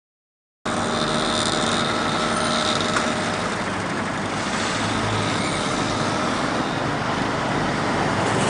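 Road traffic noise: a steady, loud wash of passing vehicles that cuts in suddenly about half a second in.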